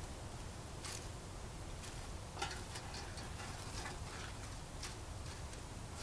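Wood fire crackling: scattered sharp snaps and ticks at an uneven pace over a low steady rumble.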